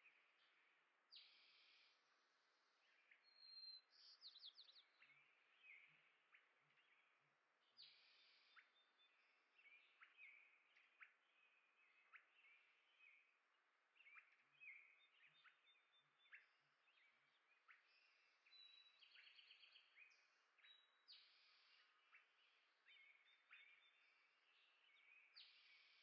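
Small songbirds chirping and calling, faint: many short chirps one after another with a few quick buzzy trills.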